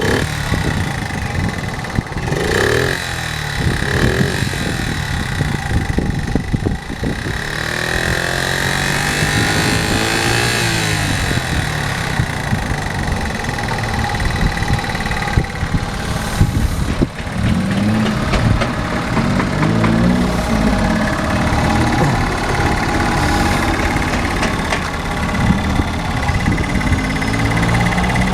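Honda Monkey 4L's small single-cylinder four-stroke engine running on its start-up check: revved up and down a few times, then settling into an uneven idle.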